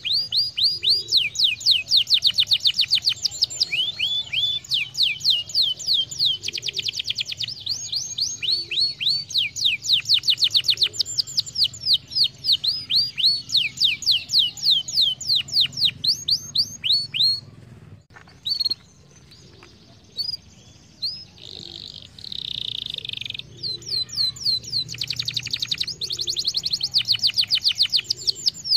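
Domestic canary singing long trills of rapid, repeated downward-sweeping whistled notes that change speed from phrase to phrase, with a brief pause about two-thirds of the way through and a buzzy rolled phrase just after it.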